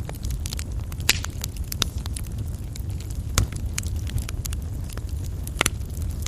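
Coal fire burning in a fireplace: a steady low rumble with irregular sharp crackles and pops, the loudest about halfway through and again near the end.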